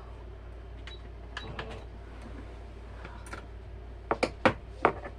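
Light clicks and taps from handling the quilt at the sewing machine, with four louder sharp clicks close together about four seconds in, over a steady low hum.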